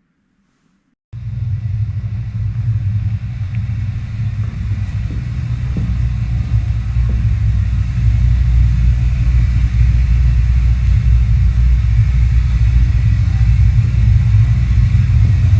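A loud, steady low rumble cuts in suddenly about a second in and keeps going, growing a little louder partway through.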